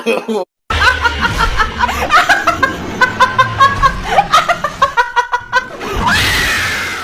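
A person laughing in quick repeated ha-ha's for several seconds, with a whooshing swell near the end.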